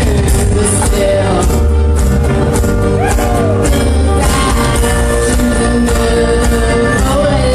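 A band playing a song live, with a singer's voice over a steady drum beat.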